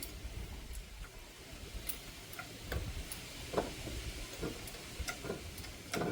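Hand tools clicking and knocking on metal in an irregular series of sharp clicks, about one or two a second, with the loudest knock near the end.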